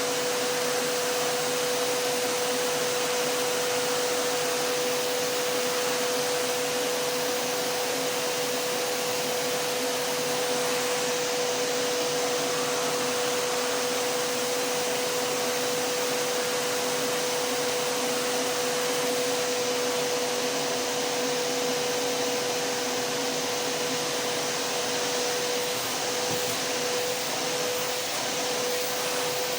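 Vacuum cleaner motor running steadily, a continuous rush of air with a steady high hum held throughout.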